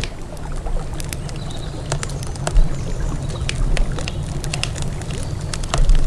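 Wood campfire crackling, with frequent sharp pops and snaps of varying loudness, over a steady low rumble.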